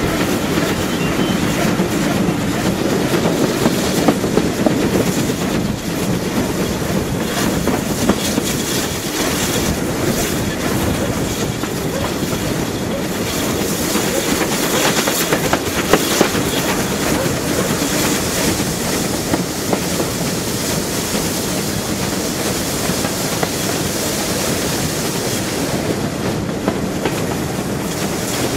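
Steam-hauled passenger train behind GWR 0-6-2T tank engine 5643 running along the line, heard from an open carriage window. A steady rumble of wheels on track, with now and then a sharp click over a rail joint.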